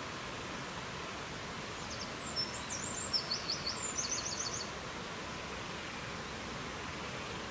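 Steady rushing wind noise, with a songbird singing one short phrase of high, rapid chirps and trilled notes from about two seconds in, lasting about three seconds.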